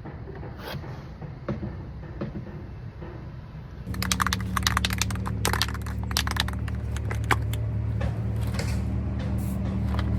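A quiet low rumble with a few clicks, then from about four seconds in a louder steady low hum with a quick run of sharp clicks and rattling taps.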